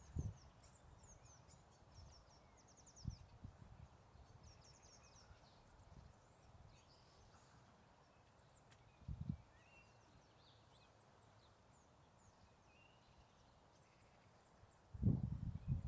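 Small birds chirping and singing in the background, busiest in the first few seconds. A few dull low thumps break in, with a longer, louder run of them near the end.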